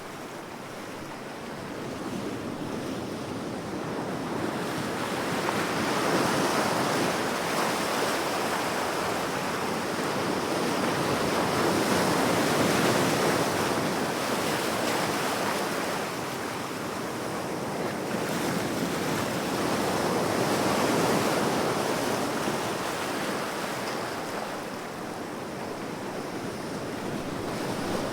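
Ocean waves washing onto the shore in a continuous rush that swells and eases slowly, cresting every several seconds, with some wind.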